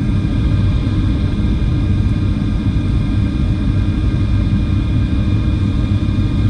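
Boeing 737-800 cabin noise in flight: a steady low rumble of airflow and engines, with several faint, steady whining tones above it.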